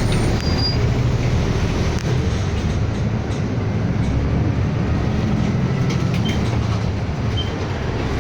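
City bus driving, heard inside the passenger cabin: a steady low rumble of engine and road noise, with a few faint, brief high squeaks.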